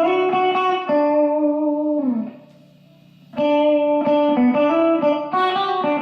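Electric guitar playing a country-style single-note lead lick over a G to D change. About two seconds in the phrase ends with a slide down in pitch and dies away. After about a second's pause, the lick starts again with quick picked notes.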